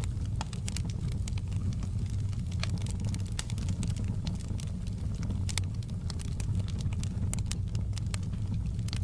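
Wood fire burning in a fireplace: irregular sharp crackles and pops from the burning logs, several a second, over a steady low rumble of the flames.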